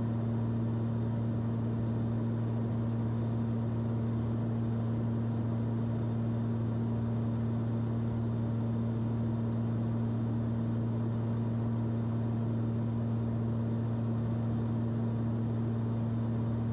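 Steady cabin drone of a Cessna 340's twin piston engines in flight: an unchanging low hum over even airflow noise.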